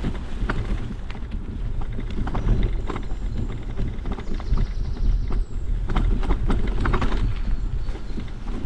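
Riding a bicycle over a rough trail: a heavy rumble from wind buffeting the microphone, with irregular clicks and knocks as the bike rattles over the bumps.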